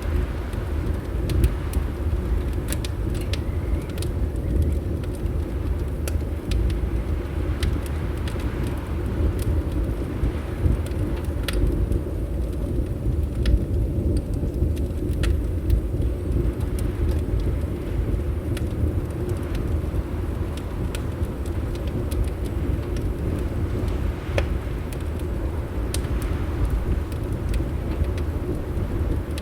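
Fireplace crackling, with scattered sharp pops and ticks, over a steady low rumble of winter wind.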